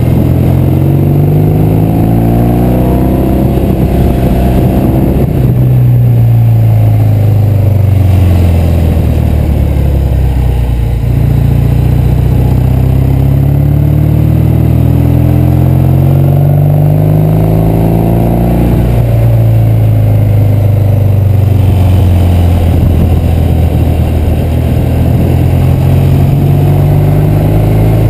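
1968 Triumph Bonneville's 650 cc parallel-twin engine running as the bike is ridden. Its note climbs steadily and then drops back, twice, and climbs again near the end.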